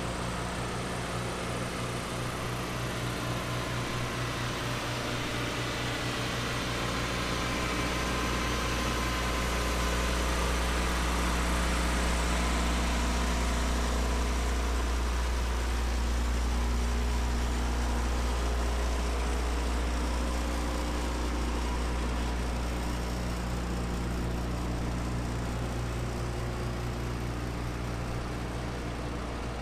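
Schwarze M6 Avalanche street sweeper's engine running steadily, getting a little louder partway through and easing back again.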